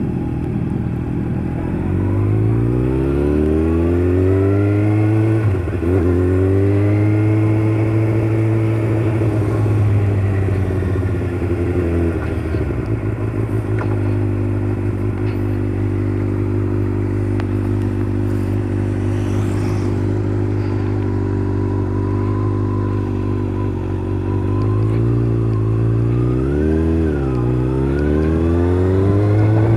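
Tuned Kawasaki ZX-6R inline-four sport bike engine under way. It revs up, drops sharply at a gearshift about five seconds in, climbs again and eases off, then holds a steady drone while cruising. Near the end it dips and climbs again as it accelerates, with wind noise on the microphone.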